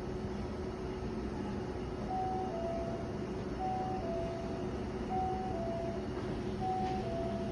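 Train and platform noise from a Hankyu New 1000 series train at a station: a steady hum, with a two-note electronic chime, high then low, repeating about every second and a half from about two seconds in.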